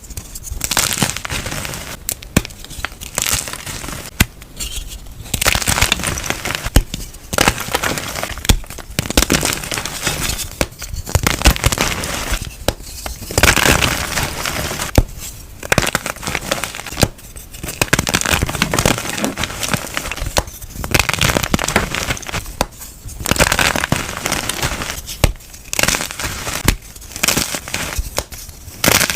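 Soft, crunchy dyed chalk being crunched close to the microphone: repeated bursts of crackling snaps and crumbling, one every one to two seconds.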